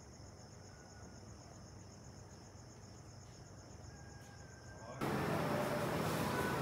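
Faint, steady, pulsing high trill of insects. About five seconds in, it gives way abruptly to a much louder, steady noisy ambience with a few faint tones.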